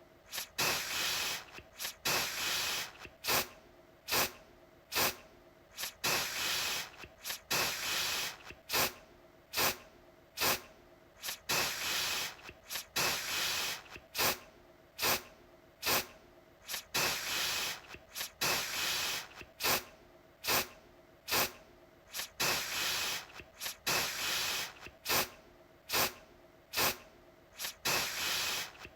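Aerosol deodorant spray can sprayed in repeated bursts: a very short sharp spurt, then a longer hiss lasting under a second, over and over with short gaps between.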